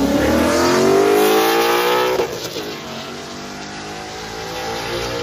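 A bolt-on Pontiac GTO's V8 accelerating hard, its revs rising steadily through a gear. About two seconds in the pitch drops sharply at a shift, and the engine keeps pulling, fainter, as the car runs away down the lot.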